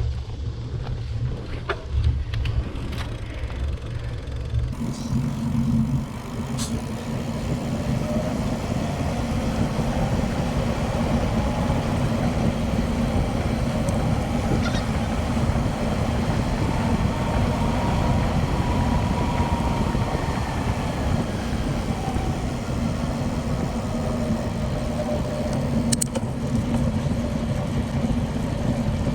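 Steady wind rush on the microphone while riding a bicycle, growing louder about five seconds in.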